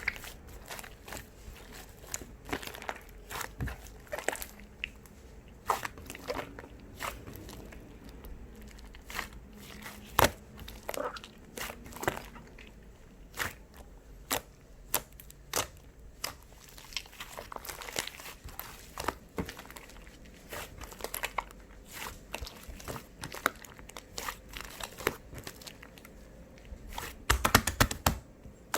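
Fluffy cloud slime being squished and stretched by hand, giving irregular crinkly crackles and sharp sticky clicks, with a quick run of clicks near the end.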